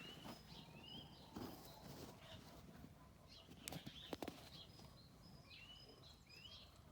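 Faint outdoor birdsong: small birds repeating short rising chirps and thin whistles, with a few sharp clicks about four seconds in.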